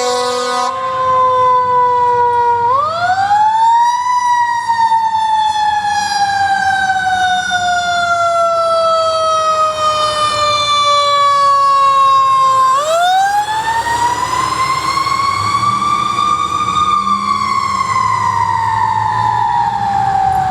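Fire engine's siren wailing: it winds up quickly twice, about three seconds in and again near the middle, and drops slowly in pitch between the rises. A low engine rumble runs under it.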